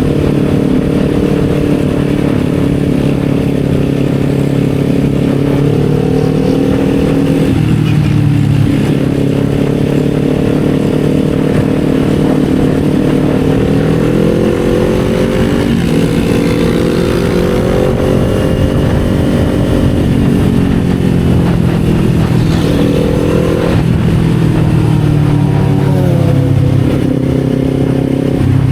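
Kawasaki Z400 parallel-twin engine running under load. Its revs rise and fall, with a few sudden dips in pitch where gears are changed.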